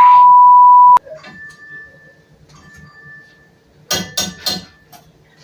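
A loud, steady one-pitch bleep that cuts in and cuts off abruptly about a second in, laid over a spoken word like a censor tone. About four seconds in come three quick sharp clinks, like a utensil knocking against a pot or dish.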